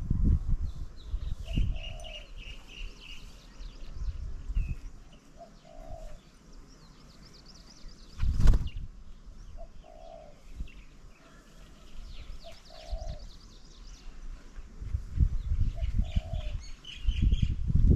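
Birds at a garden bird table: a short low call repeating every few seconds, with bursts of higher chirping near the start and again near the end. Low rumbles come and go, and one sharp loud knock sounds about halfway through.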